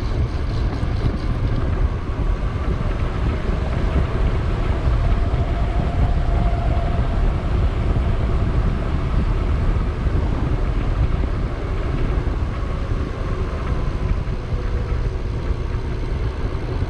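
Steady wind buffeting on the microphone, with tyre and road rumble from a bicycle being ridden along a paved road.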